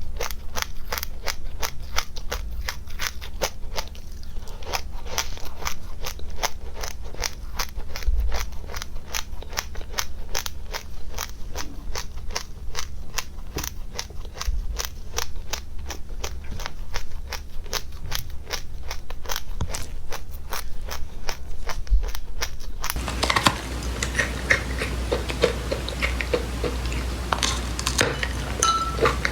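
Crunchy chewing of dry seeds: a steady run of crisp clicks at about four a second. Near the end the sound changes to a denser, softer crackle.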